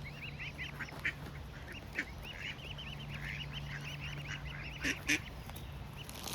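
Waterfowl chicks peeping: a constant run of quick, high, arched chirps, several a second. Two short, louder calls break in about five seconds in.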